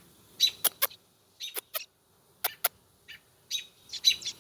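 Baby robin chirping: a series of short, sharp chirps, several coming in quick pairs with brief pauses between.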